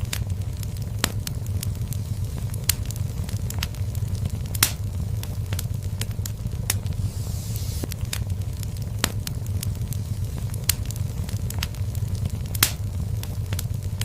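Fireplace fire burning with a steady low rumble and a constant scatter of sharp crackles and pops, two of them louder, about a third of the way in and near the end.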